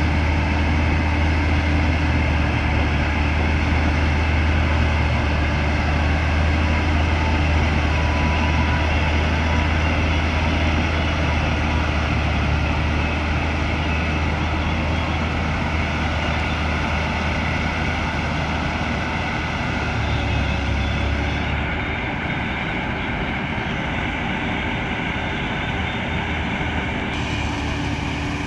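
New Holland combine harvester running steadily with a deep engine hum and the even drone of its machinery. The deepest part of the hum eases about three-quarters of the way through.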